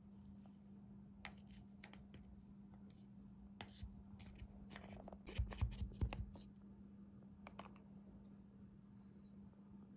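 Scattered light clicks, taps and snipping sounds of small objects being handled, busiest around the middle with a few soft low knocks, over a faint steady hum.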